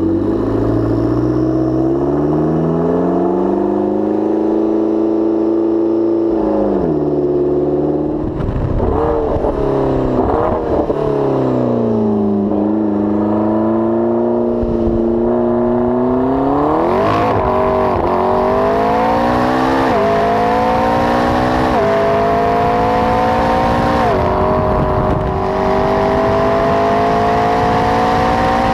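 McLaren 12C's twin-turbo V8 with a Milltek exhaust, driven flat out. The revs climb and fall, go through a few seconds of short uneven rises and falls, then climb again through four quick upshifts, each a brief dip in pitch.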